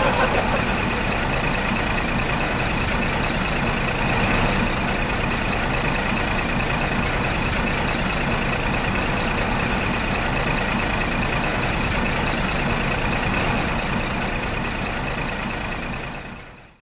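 A steady engine-like running noise, even throughout, that fades out near the end.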